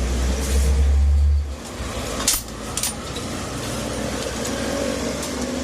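Low motor-vehicle rumble for about the first second and a half, then a steady background noise with a single sharp knock a little after two seconds in.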